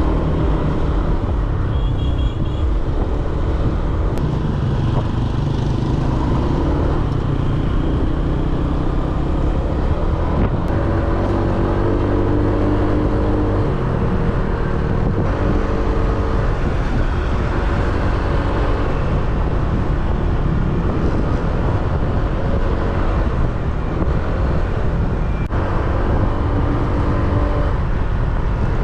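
Small motorbike engine running on the move, over a dense, steady low rumble, with its pitch shifting now and then as the revs change.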